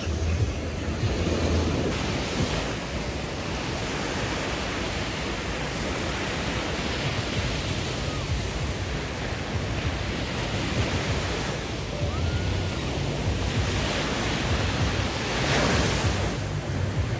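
Small sea waves washing onto the shore in a steady rush, swelling a little about two seconds in and again near the end, with wind buffeting the microphone.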